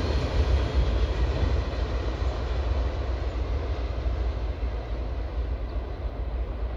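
Freight train of auto rack cars rolling along the rails: a steady rumble of wheels on track that slowly gets quieter.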